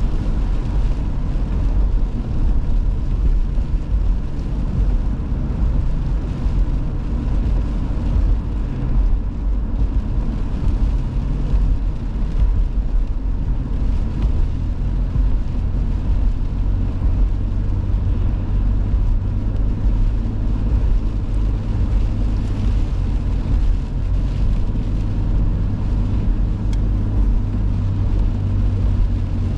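Car driving on a snowy road, heard from inside the cabin: a steady low rumble of engine and road noise.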